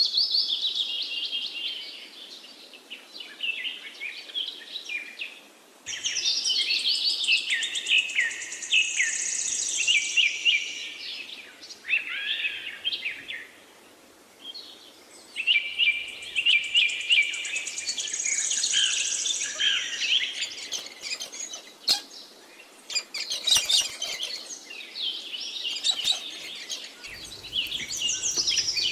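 Small birds chirping and singing in rapid high trills and chirps, in bouts of several seconds broken by short pauses.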